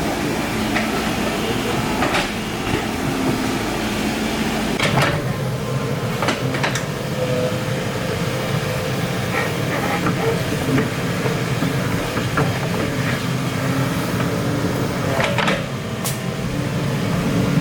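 Excavator engine running steadily under work, with several sharp metallic knocks or clanks spread through it.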